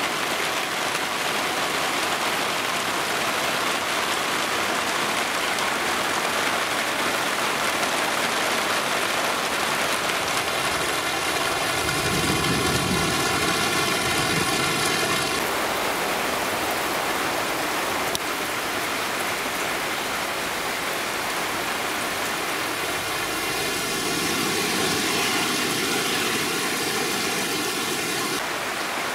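Heavy downpour in a thunderstorm cloudburst: a dense, steady hiss of rain falling on roofs, ground and garden.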